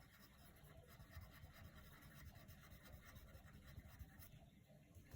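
Coloured pencil faintly scratching on paper in steady shading strokes.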